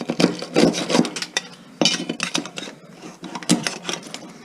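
Irregular scraping and rubbing strokes mixed with sharp knocks, as leftover material is scraped and knocked off a salvaged aluminium part to clean it.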